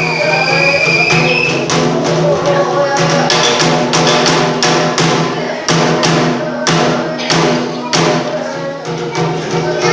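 Bitchu kagura accompaniment: sharp drum strikes at an uneven beat over a steady held low tone, with a high flute note held for the first couple of seconds.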